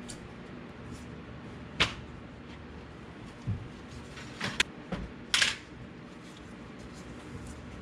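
Tools and parts being handled during a suspension rebuild: a few sharp clicks and small knocks, one about two seconds in and a cluster about four and a half to five and a half seconds in, over a steady low hum.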